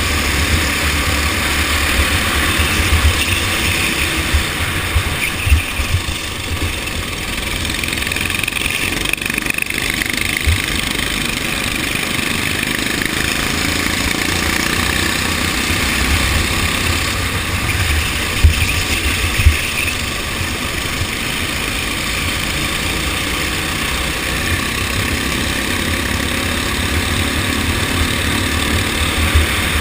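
Go-kart engines running steadily during a race, with a strong low rumble and a few sharp thumps.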